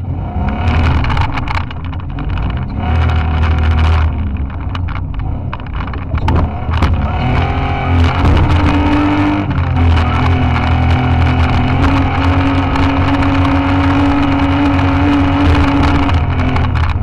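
Off-road car's engine running hard under load, heard from inside the roll-caged cabin, with frequent knocks and rattles of the body over rough ground in the first half. From about halfway in, the engine holds a steadier note.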